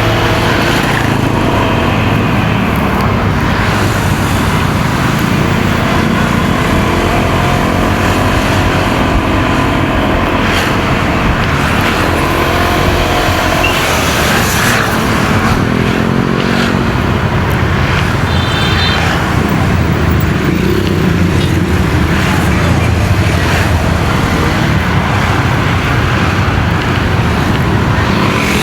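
Motorcycle engine running under way, mixed with wind rush and surrounding road traffic; the engine pitch rises and falls as the bike speeds up and slows.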